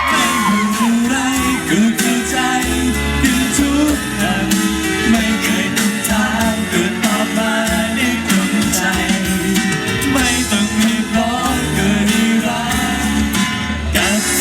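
Live pop band playing the instrumental passage of a song: guitar over steady bass and drums.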